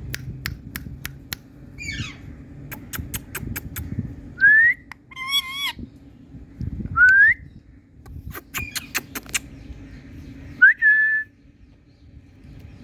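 A parrot whistling: three short rising whistles and one warbling call, with a few runs of quick, sharp clicks between them.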